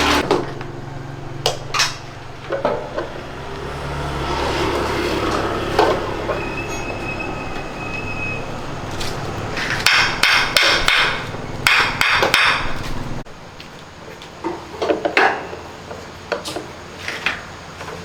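Repeated knocks and taps of hand tools during washing machine repair, with a quick run of strikes about ten to twelve seconds in. A steady low hum runs underneath and cuts off suddenly about thirteen seconds in.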